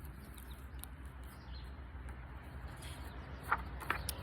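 Faint bird chirps over a low steady background hum, with two short, sharper chirps near the end.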